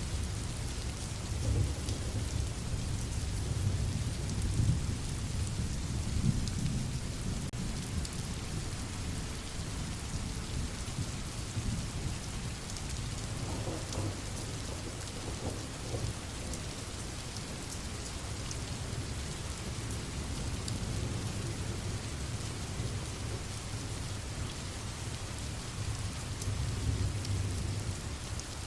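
Steady rain falling, with a low rumble underneath that swells over the first few seconds and again near the end.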